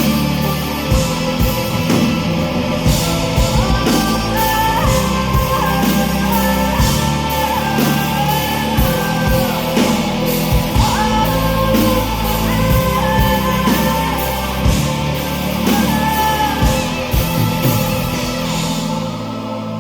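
Live band playing a hard-driving rock arrangement with drums and electric guitar, and a high female voice singing a melody of held notes that step up and down. Near the end the band thins out to a softer, ambient wash.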